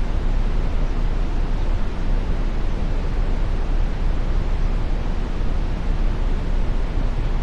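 Steady brown noise: an even, unchanging hiss weighted heavily toward the low end.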